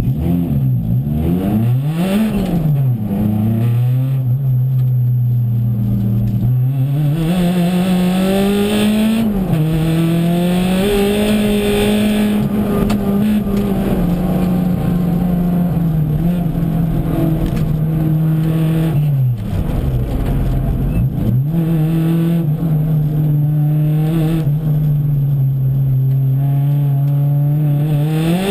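Volkswagen hatchback's engine heard from inside the cabin while driven hard, revving up and down through gear changes with long stretches of steady pull. Revs drop away about two-thirds of the way through and climb sharply again near the end.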